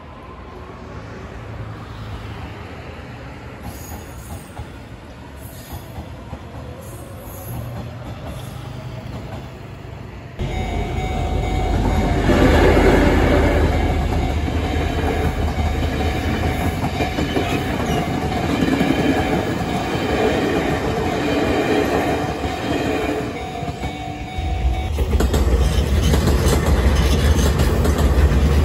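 Three Taiwan Railway trains in turn. First, an EMU500 electric commuter train pulls away. About ten seconds in it gets suddenly louder: a train of passenger coaches rolls through a level crossing, its wheels clattering over the rail joints, with a steady warning tone over it. Near the end an EMU3000 electric express train runs past.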